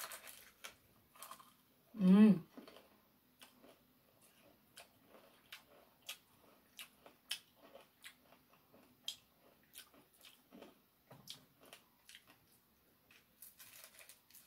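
Crispy fried chicken being bitten and chewed, with scattered crunchy clicks throughout. There is one short hummed vocal sound about two seconds in.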